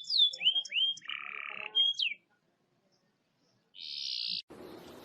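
Small songbird singing: a quick run of down-slurred whistled notes and a short buzzy trill, then about a second and a half of silence and another buzzy trill. A faint hiss follows near the end.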